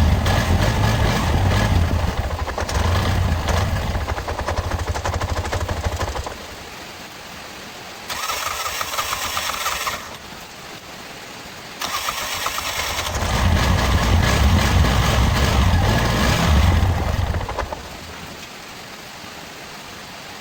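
Bajaj auto-rickshaw engine running for about six seconds, then stopping. The freshly repaired starter motor whirs for about two seconds, then cranks again, and the engine catches and runs until it cuts off a few seconds before the end. The starter is working again after its brush and commutator repair.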